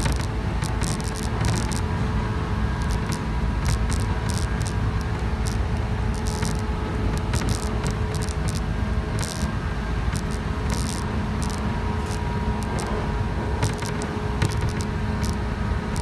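117-series electric train running at a steady speed, heard from inside the passenger car: a continuous low rumble with a steady hum, and frequent irregular light rattling and clicking.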